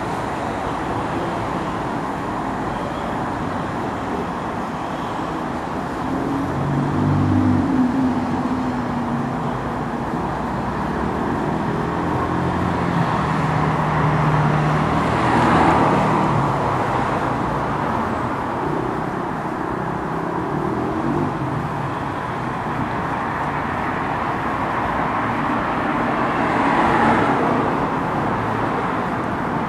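Steady road traffic noise, with vehicles passing that swell louder three times: about a quarter of the way in, near the middle and near the end.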